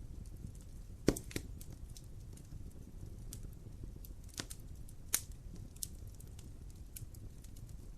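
Fireplace fire crackling: irregular sharp pops, one loudest about a second in and another strong one past the halfway point, over a steady low rumble of the flames.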